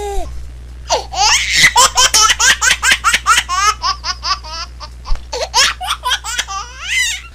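Baby laughing: a short squeal, then from about a second in a long string of rapid, high-pitched laughs. A steady low hum runs underneath.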